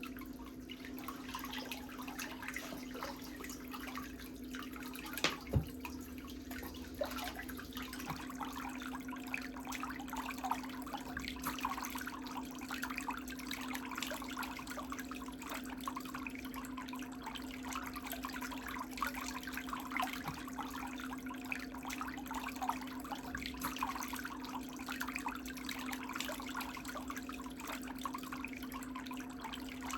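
Water splashing and trickling in small irregular bursts over a steady low hum, with one sharp knock about five seconds in.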